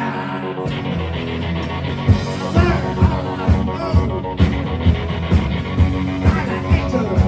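Rock band playing live: electric guitar over bass, with a steady drum beat of about two hits a second coming in about two seconds in.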